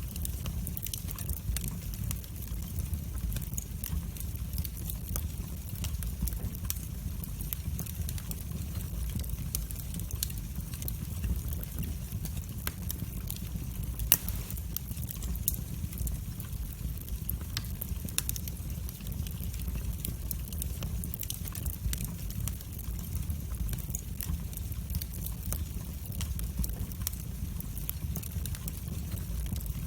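Wood fire burning in a fireplace: a steady low rumble of flames with frequent small crackles, and one louder pop about halfway through.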